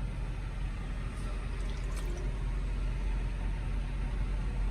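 Steady low rumble of an idling truck engine, heard inside the cab, with a faint click about two seconds in.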